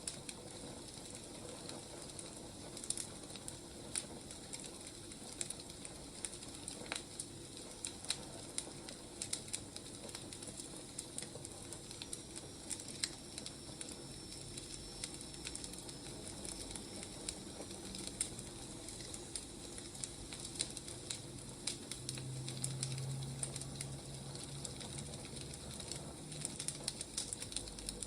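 Wood fire crackling and popping with irregular sharp snaps over a steady soft hiss. A faint low hum joins in for a few seconds near the end.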